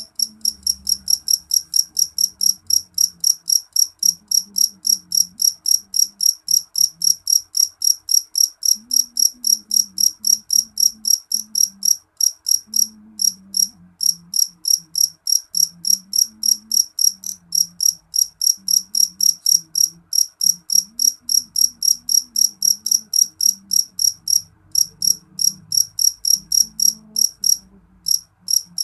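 Jeliteng cricket, a jet-black field cricket, chirping loud and shrill in an even rhythm of about three to four chirps a second, with a few brief breaks.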